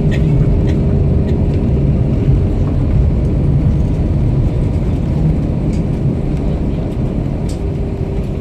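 Steady low rumble inside the cabin of an Airbus A321-231 taxiing after landing, its IAE V2500 engines at idle, with a faint steady hum and a few light clicks and rattles.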